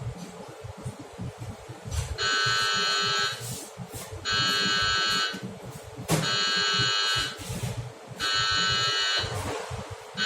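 An electronic buzzer sounding four long beeps, each about a second long and about two seconds apart, with a sharp knock just before the third beep, over a steady low hum.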